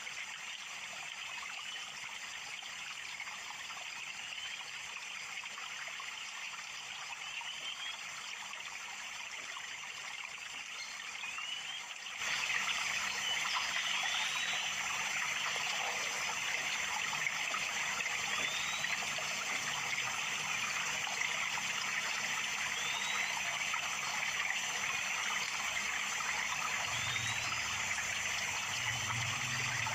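Running water trickling steadily, with a short rising chirp repeated every second or two, typical of a small bird calling. The water becomes louder suddenly about twelve seconds in.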